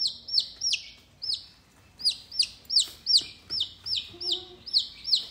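Rose-ringed parakeet screeching a run of short, shrill calls, each one rising and falling, about three a second, with a pause of about a second shortly after the start.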